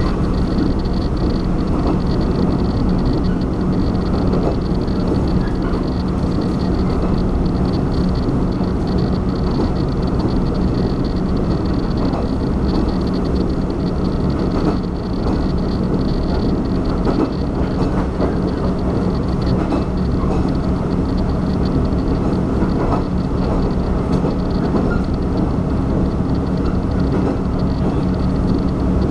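Taiwan Railways train running at speed, heard from inside the passenger car: a continuous rumble of wheels on track with a steady low hum underneath.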